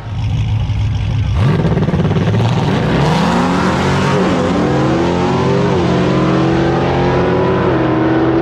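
Drag-racing car's engine launching hard and accelerating. It rumbles steadily at first, then about a second and a half in it rises in pitch, and the pitch drops at each of three upshifts as the car pulls away.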